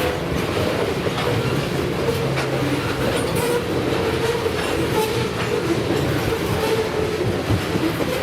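Freight train cars rolling past with a steady rumble and wheel clatter on the rails, a thin wavering tone coming and going over it.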